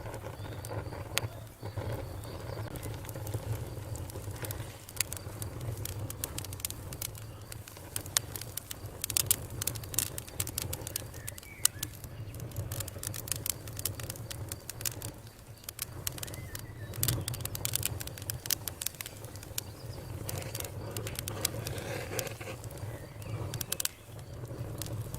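Campfire crackling: burning wood gives off many sharp pops and snaps, thickest in the middle stretch, over a low, steady rumble of the fire.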